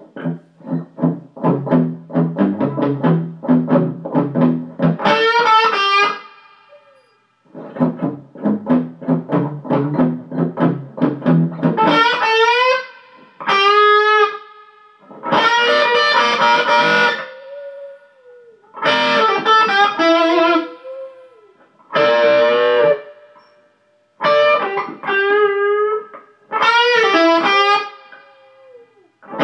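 Blues played on an electric guitar: rhythmic strummed chords for the first dozen seconds, then a run of long, wavering high notes with pitch slides, each a second or two long with short breaks between.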